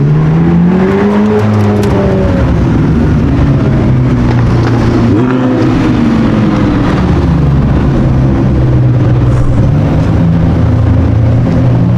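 A sports car's engine revving twice, its pitch climbing and falling away each time, then running steadily at low revs.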